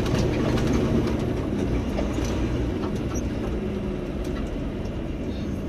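Steady low rumble of a moving truck's engine and road noise, with a constant low hum.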